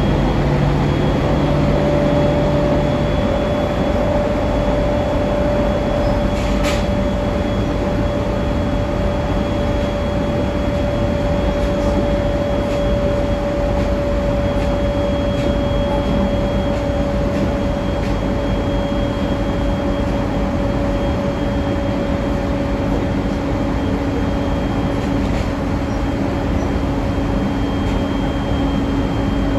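JR East 701 series electric multiple unit running at steady speed, heard inside the passenger car: a steady rumble of wheels on rail with a constant hum over it. A lower hum drops away about three seconds in, and there is a single sharp click about seven seconds in.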